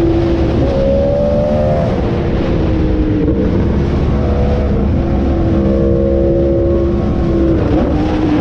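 Yamaha R1M's crossplane inline-four through an SC Project exhaust, heard on board while riding. The engine note mostly holds at a steady high pitch and dips briefly a few times.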